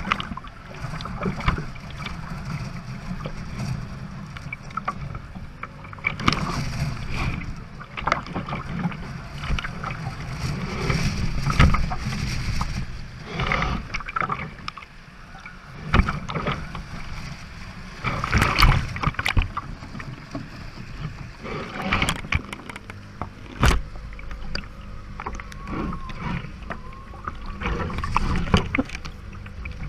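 Sailboat heeling through rough water in strong wind: wind rumbling on the microphone and water rushing past the hull, with irregular splashes and thuds every few seconds as waves hit the boat.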